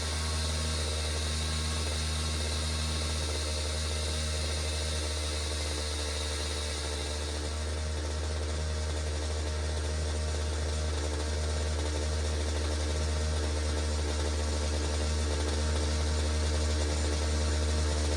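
Pioneer P-41 chainsaw's 66cc two-stroke engine running at a steady speed, getting slightly louder toward the end.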